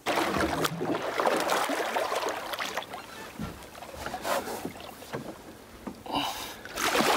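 Water splashing and sloshing against the side of a skiff as a tarpon thrashes at the surface beside the boat, loudest in the first couple of seconds.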